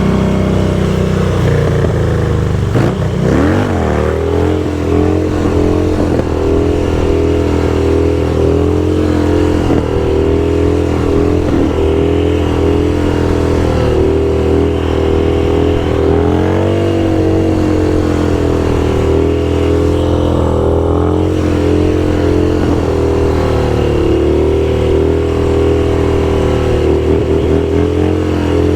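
Motorcycle engine running steadily under way, with brief shifts in pitch about three seconds in and again past the middle as the throttle changes.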